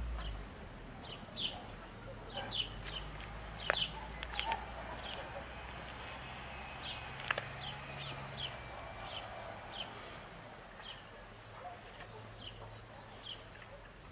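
A bird calling over and over, short high chirps that drop in pitch, about one or two a second. Two sharp clicks stand out, one about a quarter of the way in and one about halfway.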